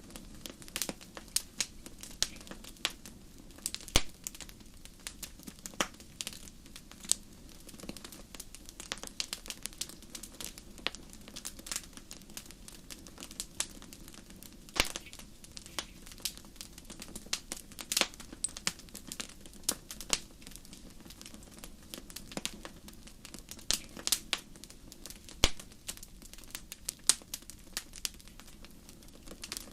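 Wood fire crackling in a fireplace: irregular sharp pops and snaps over a low steady hiss and rumble of burning, with a few louder pops.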